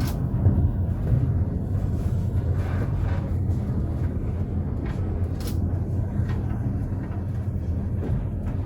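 Vintage steam-tram carriage rolling along the rails: a steady low rumble with a few short sharp clicks and knocks.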